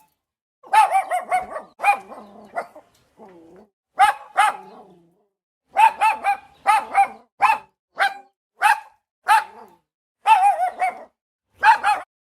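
Dog barking: high-pitched yaps, some in quick runs of three or four, with short pauses between.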